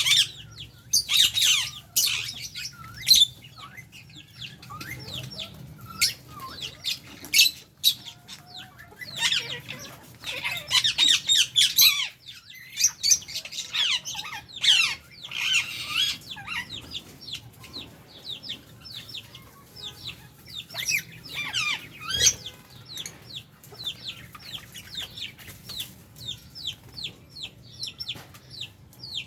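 A flock of lovebirds and budgerigars chattering and screeching, with many rapid, shrill high calls coming in dense bursts and overlapping.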